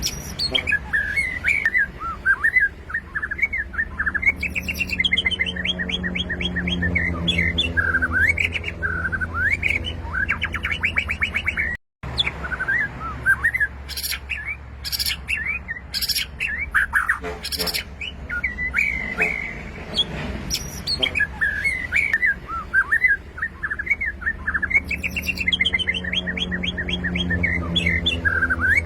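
White-rumped shama singing a long, varied song of loud whistled notes, chirps and rapid trills, with hardly a pause.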